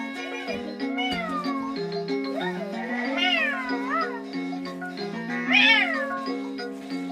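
Cat meowing repeatedly, about six meows that each rise and fall in pitch, the loudest a little over halfway through, over background music with a steady stepping melody.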